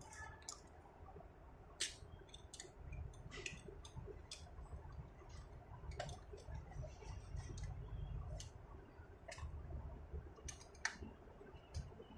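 Scattered light clicks and taps of small objects being handled, over a faint low rumble of handling noise.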